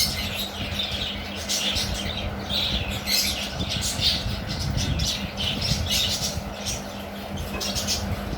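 Hand-fed lovebird chicks calling over and over with short, high calls, about two a second, over a steady low hum.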